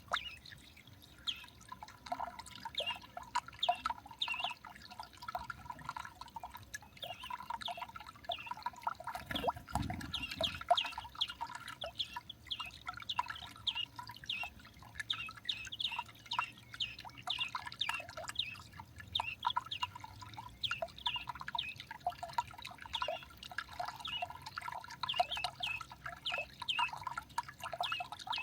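Small garden birds chirping: a dense stream of short, high, quickly repeated chirps that overlap throughout. A single low thump comes about nine and a half seconds in.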